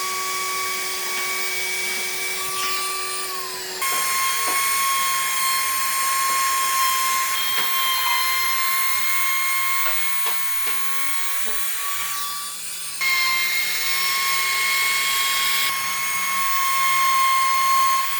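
A small high-speed power tool running with a steady high-pitched whine, with a few faint clicks; the sound changes abruptly twice, about four and thirteen seconds in.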